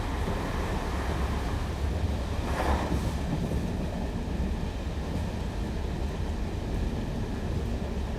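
Diesel train rumbling steadily at low pitch, with a brief hiss rising and fading about two and a half seconds in.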